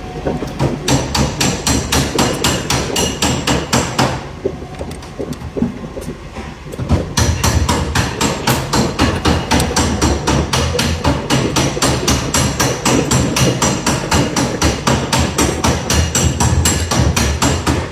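Rapid, evenly spaced metallic knocking, about five knocks a second, that stops about four seconds in and starts again about three seconds later.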